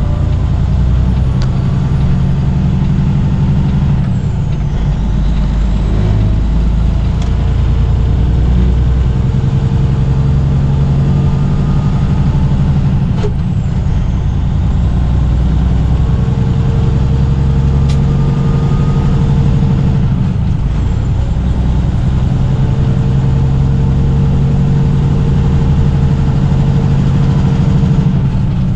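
Peterbilt 579 semi truck running down the road, heard from inside the cab: a steady low engine and road drone, with a humming tone that comes and goes every few seconds.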